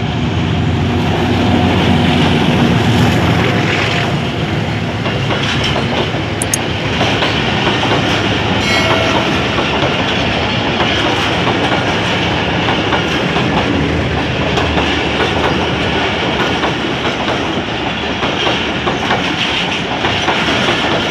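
Pakistan Railways passenger train running on the track, with a steady rumble and wheels clattering over the rail joints.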